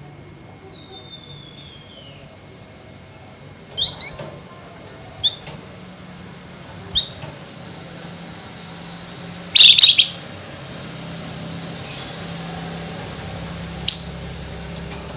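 Flamboyan songbird giving sparse sharp, high chirps, with a faint falling whistle near the start and a loud harsh burst of chatter about ten seconds in. A low steady hum lies underneath.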